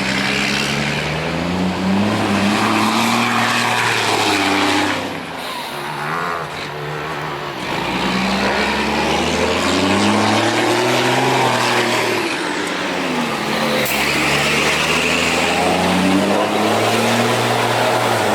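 Dakar rally truck's diesel engine revving hard, its pitch climbing and dropping about four times as it accelerates and comes off the throttle.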